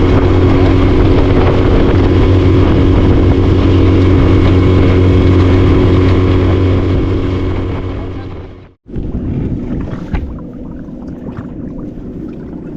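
Boat's outboard motor running steadily at speed, then fading away after about eight seconds; a quieter, steady rush of wind follows.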